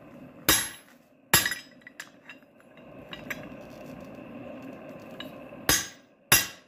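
Hammer blows on hot steel at the anvil, cutting a shoulder into a bar to form a square tenon: four sharp ringing strikes, two early and two near the end, with light metallic clinks and a faint steady hum between them.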